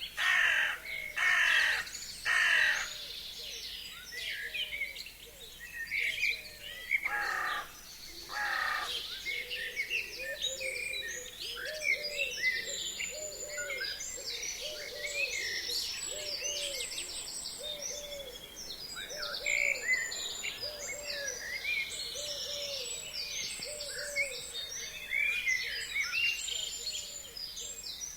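Forest birds singing: a crow caws harshly four times in the first few seconds and twice more about a quarter of the way through. Underneath are many overlapping high chirps and trills from small songbirds, and a low short call repeated steadily through the middle.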